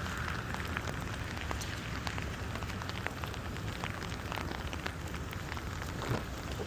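Hard rain falling, a steady hiss with many small sharp drop hits close by.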